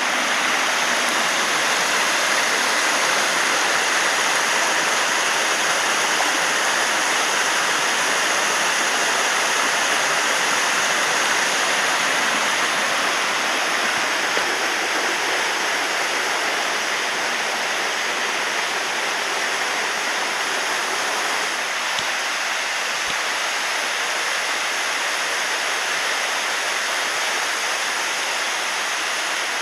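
Waterfall pouring steadily: a constant rush of falling water.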